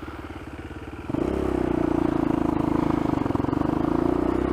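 Dirt bike engine ticking over at low revs, then about a second in the throttle opens and it runs louder at a steady higher speed.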